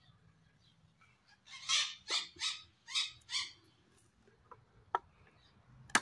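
A bird calling five harsh notes in quick succession, followed near the end by a couple of sharp clicks.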